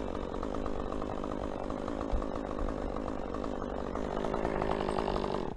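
Chainsaw engine running steadily at high speed, then stopping abruptly near the end.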